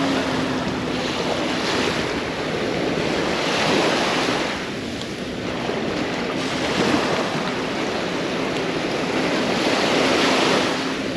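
Small waves breaking and washing up the sand, swelling and easing every few seconds. A faint steady hum runs underneath.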